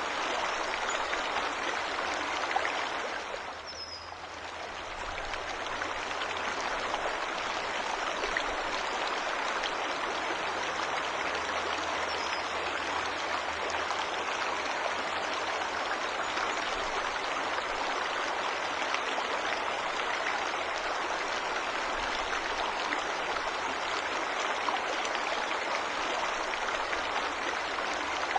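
Waterfall in a forest, water rushing steadily, dipping briefly in loudness about four seconds in.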